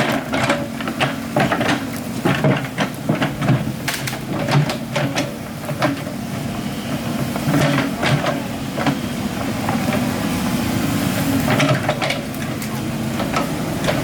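Excavator's diesel engine running steadily, with repeated knocks and clatter from the digging work.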